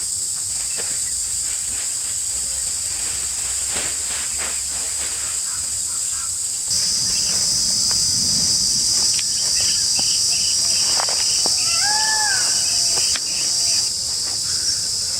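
Dense insect chorus in forest: a steady high-pitched buzz that grows louder about halfway through and eases back near the end. A bird gives a short arched call near the end.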